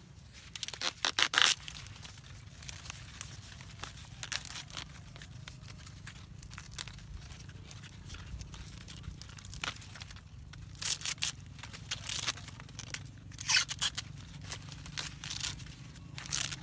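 Dry corn husks and leaves tearing and crunching in irregular bursts as corn is harvested by hand, with the loudest bursts about a second in and again in the last third.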